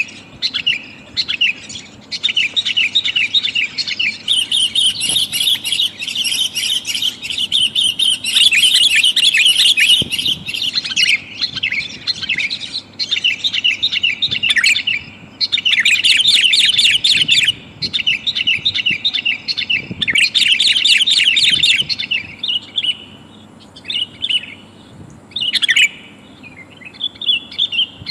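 Sooty-headed bulbuls (kutilang) calling: fast chattering runs of notes in repeated bursts, densest through the middle and thinning to shorter scattered calls near the end. A bird-trapping lure recording, presented as a female calling to males.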